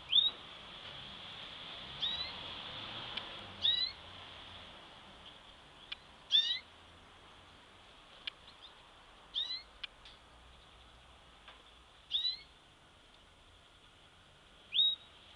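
A bird giving short, rising whistled call notes, seven in all, spaced about two to three seconds apart, over a faint steady high hiss.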